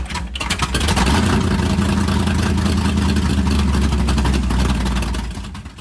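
A car engine running with a rapid, throbbing exhaust beat, fading out about five seconds in.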